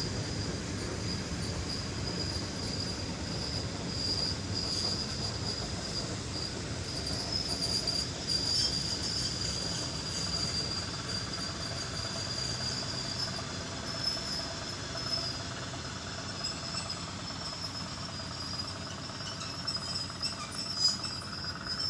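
ER9M electric multiple unit rolling in to stop, with a steady high squeal as it brakes over a low rumble of running gear that weakens as it slows. A short sharp sound comes near the end.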